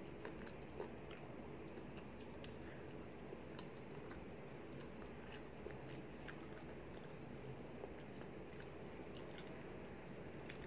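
Close-up chewing by a person eating rice and curry with her fingers: scattered small, irregular wet clicks from the mouth over steady low room noise.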